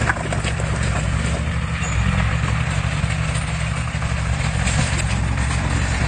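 Heavy diesel engine of earth-moving equipment running steadily, with a low rumble and a noisy mechanical wash over it.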